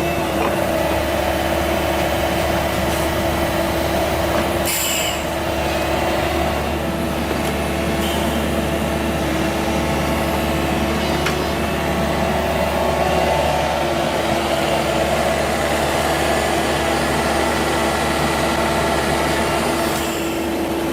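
Heavy construction machinery running steadily: an even engine drone with a constant whine over it, and a short hiss about five seconds in.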